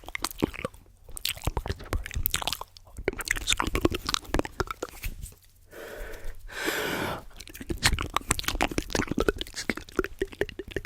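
Close-miked ASMR mouth sounds and tapping: a dense run of quick clicks and pops, broken by a steady hiss lasting about a second around six seconds in.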